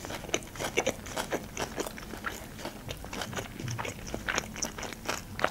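Close-miked chewing of a mouthful of sushi roll with the mouth closed: a dense, irregular run of small mouth clicks and smacks.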